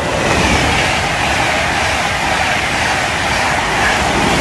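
LNER InterCity 225 express (Mark 4 coaches with driving van trailer 82211) passing through the station at speed: a loud, steady rush of wheels on rail and air.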